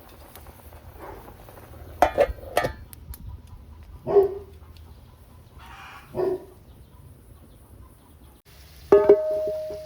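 A few sharp clinks, then two short animal calls about two seconds apart, then near the end a sharp knock followed by a ringing metal tone, like a pot or lid being struck.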